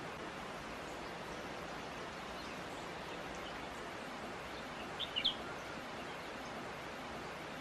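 Steady rush of a gentle stream, with a small bird giving a quick burst of three or four sharp chirps about five seconds in and a few fainter chirps before it.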